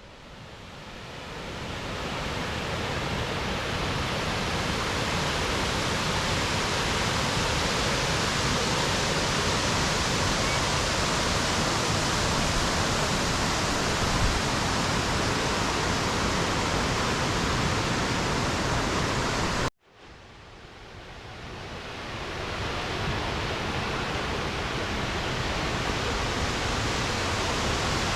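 Steady rush of a large waterfall heard close up, an even wash of noise. It fades up over the first two seconds, cuts out abruptly about two-thirds of the way through, then fades back in.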